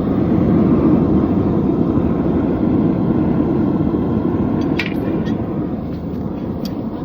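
Forge running with a steady, loud rushing noise while a knife blade heats inside it, with a few light clicks about five seconds in.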